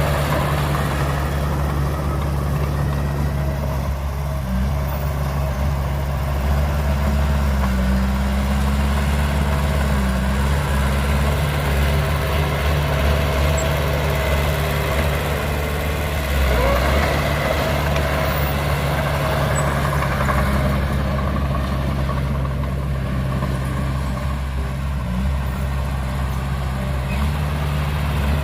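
Heavy diesel engine of earthmoving machinery running steadily with a low, even drone, shifting slightly in pitch now and then.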